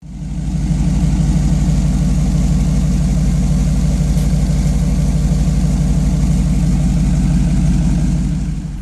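Single-turbo Ford Coyote 5.0 V8 of a 2017 Mustang S550 idling steadily through a fender-exit exhaust. It drops off in level near the end.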